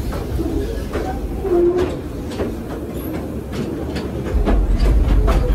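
Mine train ride cars running on their track: a low rumble with irregular clacks of the wheels on the rails, the rumble growing louder a little past four seconds in.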